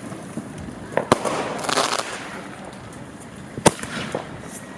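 Fireworks going off: two sharp bangs, one about a second in and one about three-quarters of the way through. A crackling hiss follows just after the first bang.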